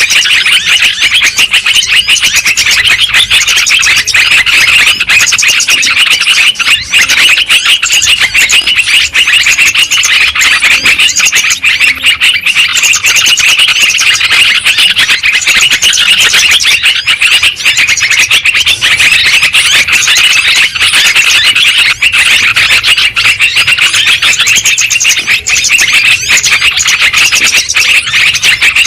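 Yellow-vented bulbuls (trucukan) singing and chattering loudly and without pause, many quick bubbly notes overlapping as from several birds at once.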